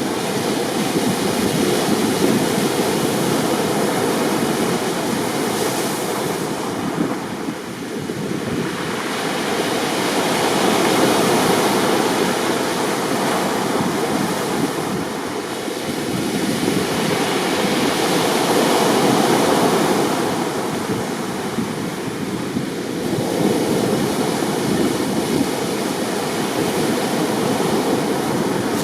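Rough sea: heavy waves breaking, the noise swelling and easing in slow surges every several seconds, with wind on the microphone.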